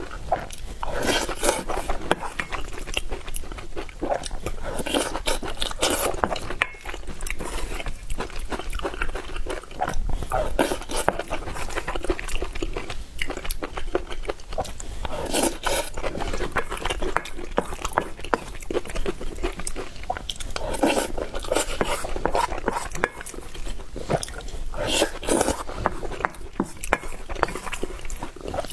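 A person eating spicy noodles close to the microphone: steady chewing and wet mouth clicks, with about five louder, noisier bites or slurps.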